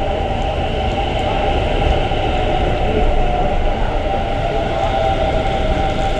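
Electric commuter train of the Sarmiento line running at the station: a steady rumble with a held whine.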